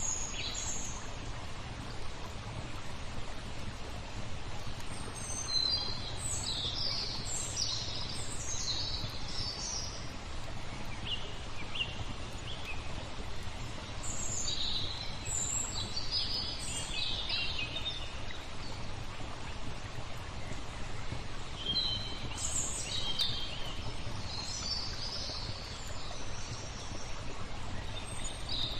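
Small birds chirping and twittering in three bouts over a steady rush of flowing water.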